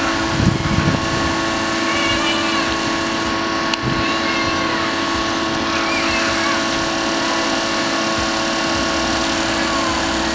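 Steady engine hum with several constant tones, with faint distant voices and a short knock about four seconds in.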